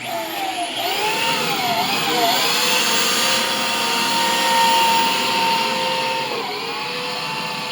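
Electric hand drill boring a bolt hole, its motor pitch swinging up and down with the trigger and load, then holding steady before slowing about six and a half seconds in.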